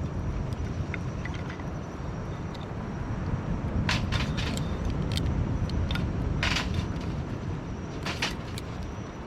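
Wood campfire crackling, with small ticks and a few louder pops about four, six and a half and eight seconds in, over a steady low rumble.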